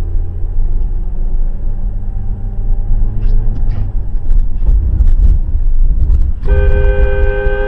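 Steady low rumble of a car on the road, heard from inside the vehicle. A bit over six seconds in, a car horn starts and is held steadily.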